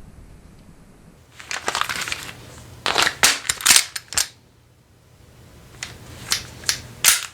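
Airsoft gun being reloaded: a scraping rattle about a second in, then a run of sharp plastic-and-metal clicks. After a short pause, a few more clicks come near the end.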